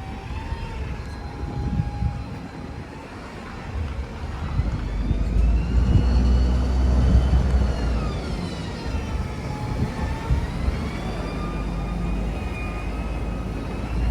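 Bus driving past close by: its engine rumble builds to its loudest about six to eight seconds in, with a whine that rises and falls in pitch as it goes.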